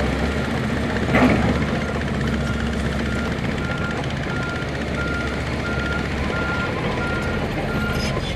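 Heavy construction machine's diesel engine running steadily while its reversing alarm beeps about twice a second, stopping near the end. A single clank about a second in.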